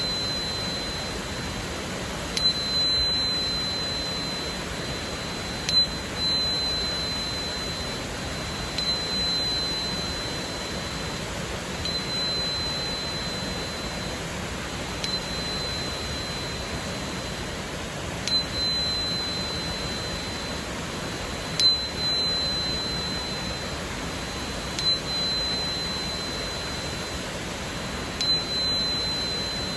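A 4096 Hz crystal tuner (a tuning fork tapped against a quartz crystal) is struck about every three seconds. Each tap is followed by a clear, steady high tone that rings for a second or two. A steady waterfall rushes underneath.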